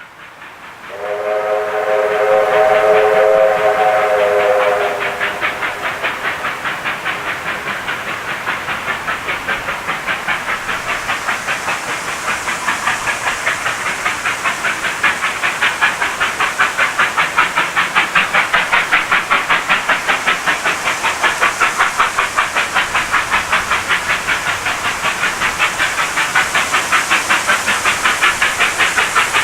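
Steam locomotive whistle sounding a chord of several notes for about four seconds, followed by the locomotive's rapid, even exhaust beats with a hiss of steam.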